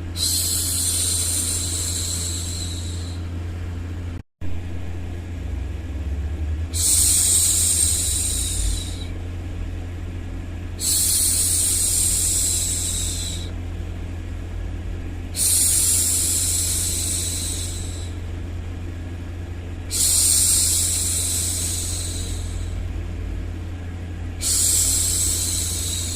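A woman's voice shushing "shhh" over and over, six times, each shush lasting two to three seconds with four to five seconds between them, over a steady low white-noise hum. The sound cuts out briefly just after four seconds in.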